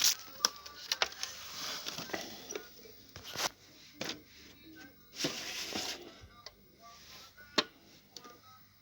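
Irregular sharp clicks and knocks with short rustling noises, from hands and tools working on the wiring of an opened television's power section.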